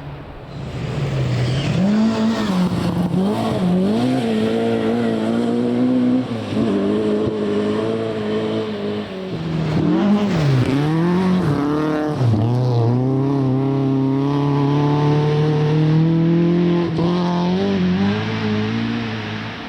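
Rally car engine revving hard, its pitch rising and dropping again and again through gear changes and lifts, then climbing steadily for several seconds in one long pull through the second half.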